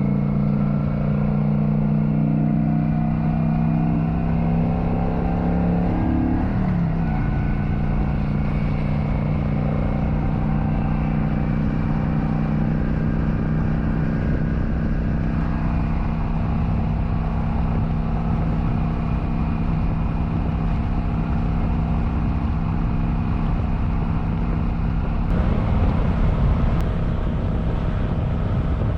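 Kawasaki Vulcan 900's V-twin engine running at road speed, with wind noise on the mic. The engine note climbs slowly, drops sharply about six seconds in, then holds steady.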